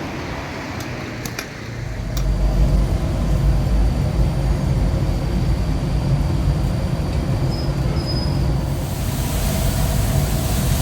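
A few light clicks, then a steady low vehicle rumble sets in about two seconds in and keeps on; a rushing hiss like wind swells near the end.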